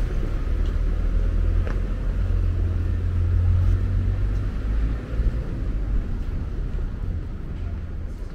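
A car engine running close by, a low rumble that eases about five seconds in.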